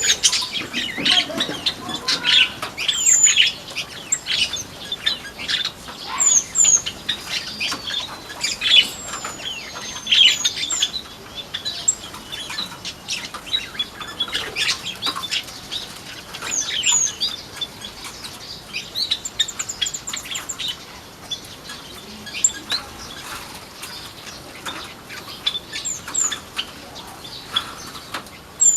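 Flamboyan birds in an aviary chirping and calling, with short high notes coming thick and fast and a quick high trill partway through, along with fluttering wings. The calling thins out over the second half.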